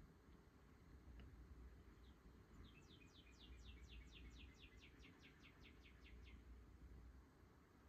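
Faint bird song: a run of quick falling chirps, about five a second, lasting nearly four seconds, over a low steady hum.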